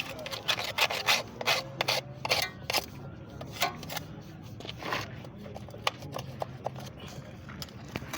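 Hand scraping on a part in quick, irregular strokes, dense for the first three seconds and then sparser.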